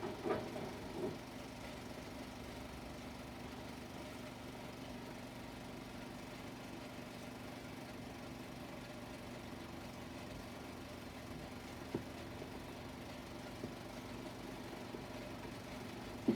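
Steady low hum and hiss from a worn 16mm optical film soundtrack, with a few soft knocks in the first second and a single click about twelve seconds in.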